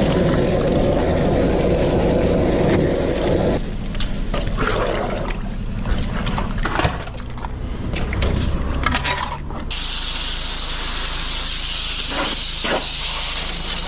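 Water rushing and gurgling in a drain, then several seconds of scattered knocks and clatter, then a steady hiss of spraying water.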